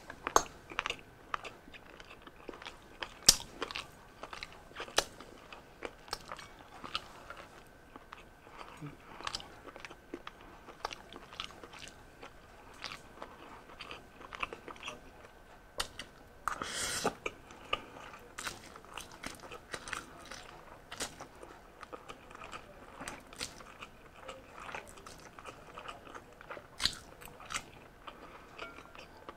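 Close-miked eating sounds: a person chewing Samyang spicy instant noodles, with many short, sharp wet mouth clicks. One longer, louder rushing sound comes about halfway through.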